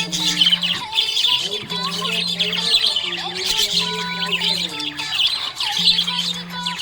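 A flock of budgerigars chirping and warbling busily and continuously, with a song playing underneath in held low notes and a melody.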